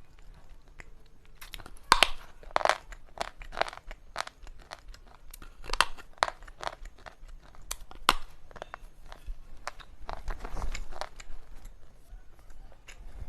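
Slate pencil (baked clay) being bitten and chewed close to the microphone: a run of sharp, brittle crunches and cracks, the loudest bites about two seconds in and again near six and eight seconds, then denser grinding chewing.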